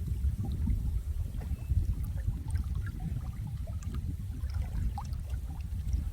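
Water flowing steadily: a low, even rush with many small scattered plinks and drips on top.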